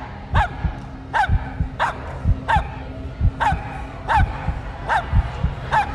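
A dog barking a steady series of single sharp barks, a little under one a second, counting out a number by barking. Background music with a low pulsing beat runs underneath.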